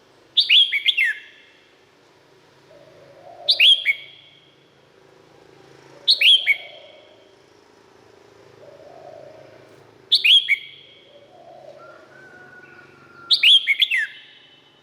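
Red-whiskered bulbul singing: five short phrases of quick, falling notes, one every three to four seconds.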